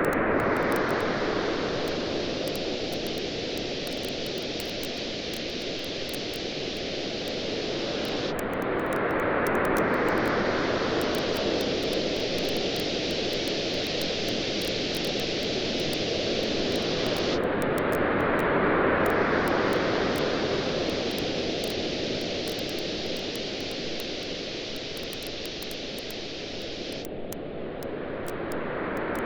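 Waves washing on a beach, rising and falling in slow swells about every nine seconds, with a bonfire crackling over them in many small sharp pops.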